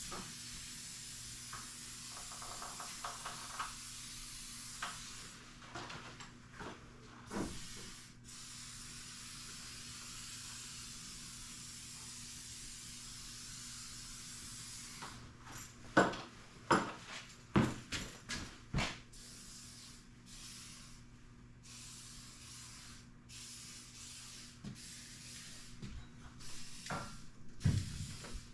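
Aerosol lubricant sprayed onto garage door hardware, first in long hissing sprays and later in short bursts. A few sharp metallic knocks and clanks come in the middle and again near the end.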